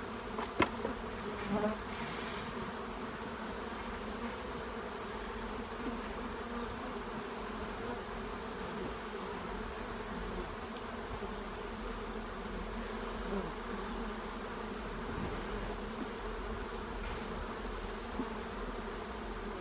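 Steady buzzing hum of a honey bee colony around an open hive box, with a few light knocks of wooden frames being set in near the start.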